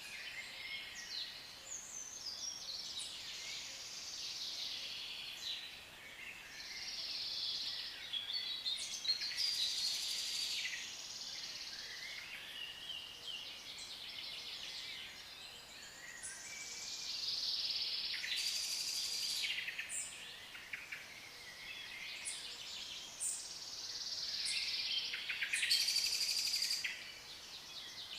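A group of African lovebirds chattering and chirping without a break, with louder shrill bursts now and then.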